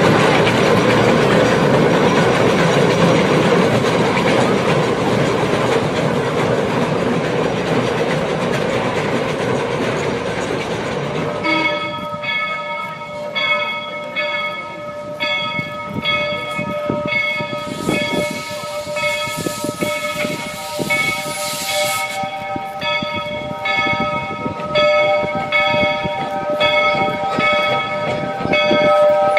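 A train running for about ten seconds, then a locomotive bell ringing steadily, struck about one and a half times a second, with a hiss for a few seconds midway through the ringing.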